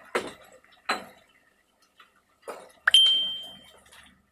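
Kitchenware clattering: a few short knocks of dishes or utensils, then one sharp clink about three seconds in that rings briefly.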